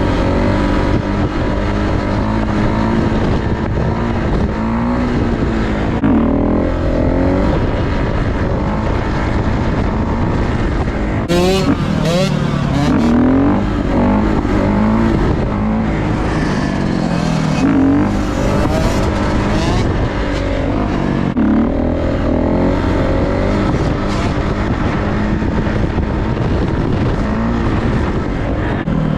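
Dirt bike engines revving up and down as bikes ride around, the pitch rising and falling over and over. About eleven seconds in, one bike sounds louder and harsher for a second or two with fast swings in pitch, as if passing close.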